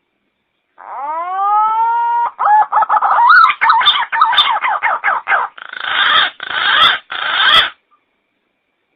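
Pink-necked green pigeon (punai gading) call used as a lure: a rising whistled note, then a run of quick wavering warbled notes, ending in three harsh, rasping notes that stop abruptly.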